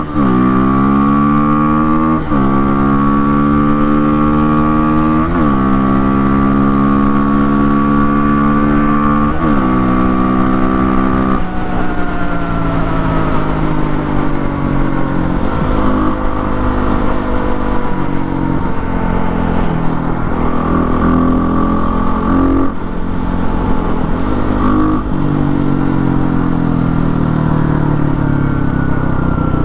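Kawasaki KLX300R dirt bike's single-cylinder four-stroke engine, breathing through an FMF Powercore 4 exhaust with a quiet insert and an open airbox lid, pulling through the gears: the pitch climbs and drops sharply at each of four upshifts in the first ten seconds. Then it comes off the throttle with the pitch sinking slowly, and picks up again near the end.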